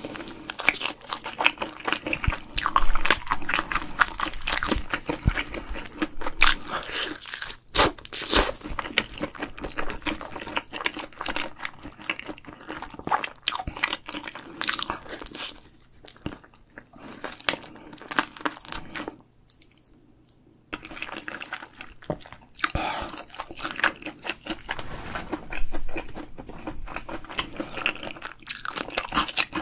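Close-miked crunching and chewing of a battered deep-fried shrimp: a dense run of crisp crackles and bites, with a short pause about two-thirds of the way through before the chewing resumes.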